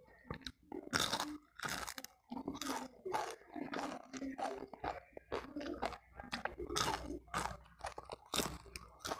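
Close-up crunching and chewing of a crispy deep-fried gourami (ikan sepat), bones and skin included, with many sharp, irregular crunches, several a second.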